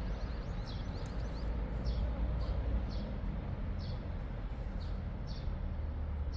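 A bird chirping repeatedly, short high falling calls about once a second, over a steady low rumble.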